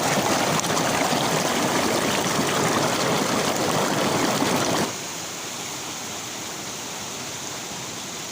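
River water rushing steadily over rocks. About halfway through it drops to a quieter, duller rush.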